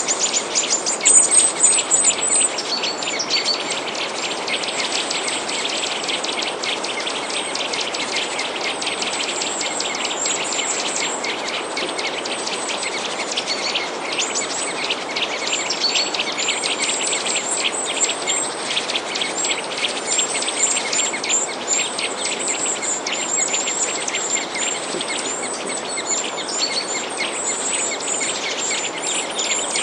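Many small birds chirping and twittering at once in a dense, continuous chorus, with high trills, over a steady background hiss.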